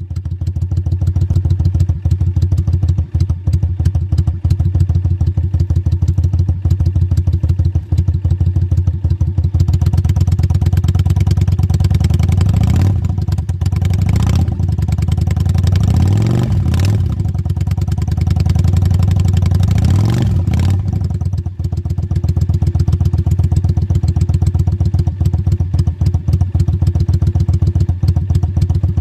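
Yamaha Drag Star 400's carbureted V-twin running through a 70 mm slash-cut aftermarket muffler, idling with an even low pulse. About halfway through it is blipped several times in quick succession, each rev rising and falling, then it settles back to idle.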